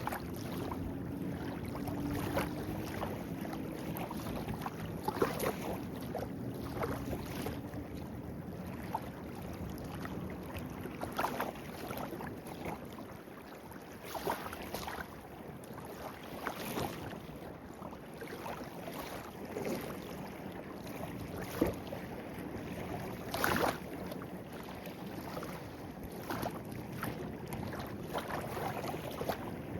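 Small stream babbling over stones: a steady watery rush with frequent small splashes and gurgles, one sharper splash about three-quarters of the way through.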